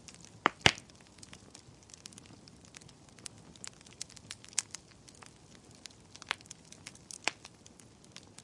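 Wood fire crackling: irregular sharp pops and snaps over a low steady hiss, with two loud pops close together about half a second in.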